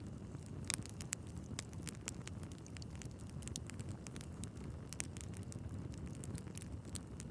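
Wood fire burning in a fireplace: a steady low rumble of flames with many irregular sharp crackles and pops from the logs, two of them louder, a little under a second in and at about five seconds.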